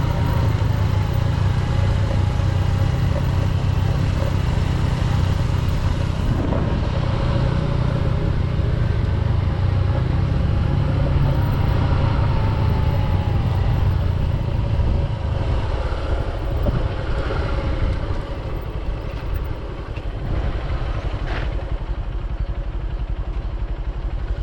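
Single-cylinder engine of a Honda XR150 trail motorcycle running while riding, a steady low exhaust note that eases somewhat in the second half.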